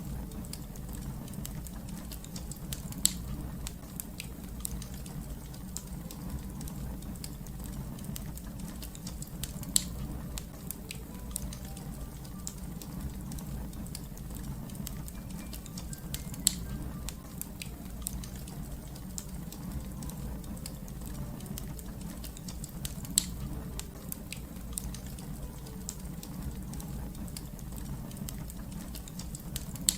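Wood fire crackling steadily over a low rumble, with four louder pops spaced several seconds apart.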